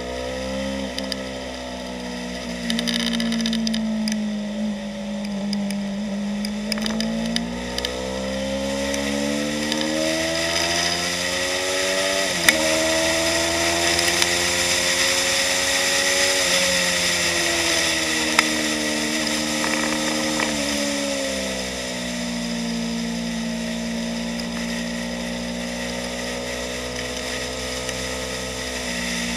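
2015 Yamaha YZF-R3's parallel-twin engine heard from on board at speed. Its pitch holds steady through a corner, climbs under acceleration from about eight seconds in with a quick gear change near the middle, falls as the bike slows about two-thirds through, then settles steady again.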